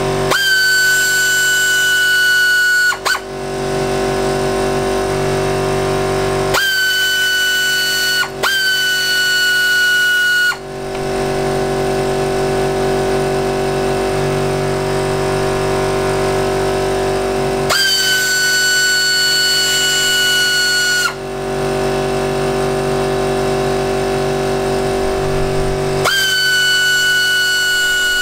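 Electric power tool motor whining in five separate runs of about two to three seconds each, spinning out the clutch cover bolts; each run starts with a brief rise in pitch and sags as it stops. A steady musical drone plays underneath.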